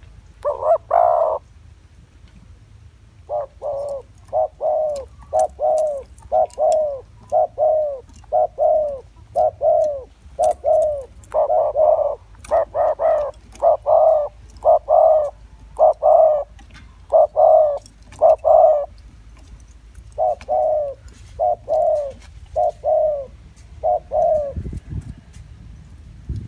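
Spotted dove cooing: a long string of short coo notes in twos and threes, the male's calling song used as a lure call for wild doves. A faint low rumble comes in near the end.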